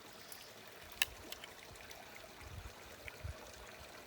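Small mountain brook babbling and trickling steadily, with one sharp click about a second in.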